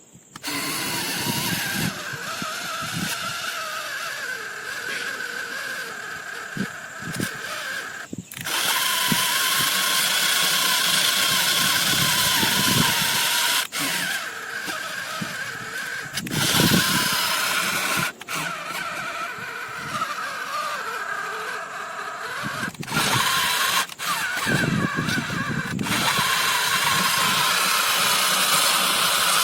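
Model John Deere tractor's small motor and newly fitted gearbox gears whining as it drives, loaded with added weight. The sound cuts out abruptly several times and starts again.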